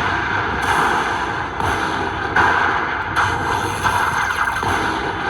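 Loud, steady din of a casino floor around slot machines, a dense noise that swells and drops in short stretches.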